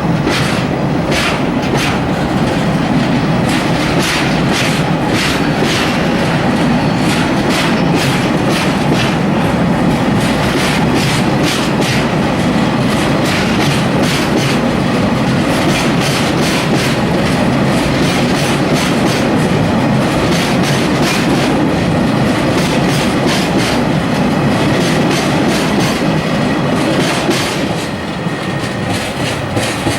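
Freight train of tank wagons rolling past, its wheels clicking over rail joints in a steady, rapid stream, the sound easing a little near the end.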